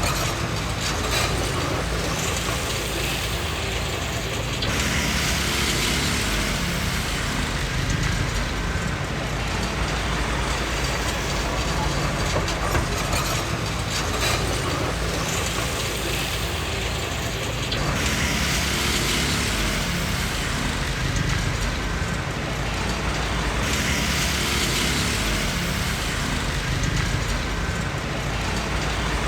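Komatsu D20P crawler bulldozer working: its diesel engine running steadily under the clank and squeal of its steel tracks, with two long stretches of louder grinding and clatter.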